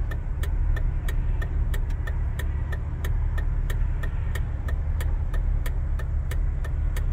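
Cabin noise of a 2006 Jeep Wrangler Rubicon driving on the road: a steady low rumble of engine and road, with a faint regular ticking about three times a second.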